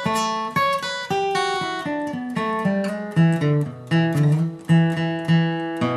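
Acoustic guitar playing a bluegrass lead line: a run of separate picked single notes moving up and down in pitch, several notes a second.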